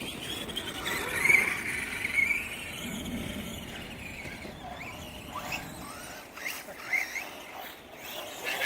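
Two 1/10-scale electric RC monster trucks, a brushless Redcat MT10-E and a brushed Arrma Granite, whining from their motors and drivetrains. The pitch rises and falls as they accelerate and slow, loudest about a second in.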